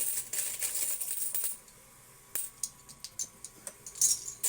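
Quarters clinking and rattling against each other as they are handled by hand. A quick run of clinks for about a second and a half gives way to a short pause and a few scattered clicks, then another loud cluster of clinks near the end.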